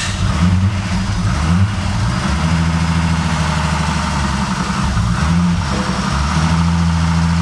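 Freshly built Nissan RB30DET turbocharged straight-six running on its first startup, its engine speed shifting up and down rather than settling: it starts but doesn't want to idle.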